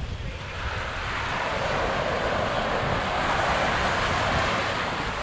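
A wave breaking and washing up the sand: a rushing hiss that swells about a second in and fades away near the end.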